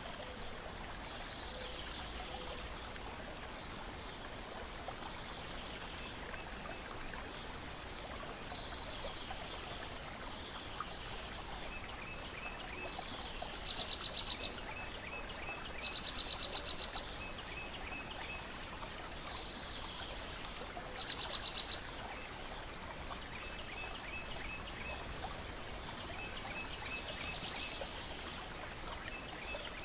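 Water lapping and trickling steadily, with birds calling over it: three loud, fast trills around the middle and faint short chirps repeating now and then.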